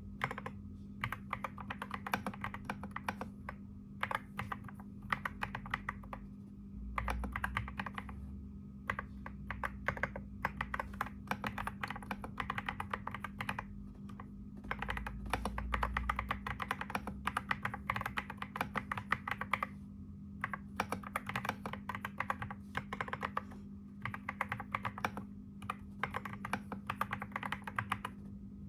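Keyboard typing in fast runs of keystrokes broken by short pauses, over a steady low hum.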